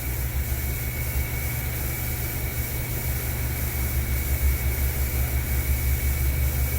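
Steady running hum of a Miyano BNE CNC lathe, with a thin high whine held on one pitch, while the sub spindle's B-axis is jogged. The slide movement itself is barely heard over the hum.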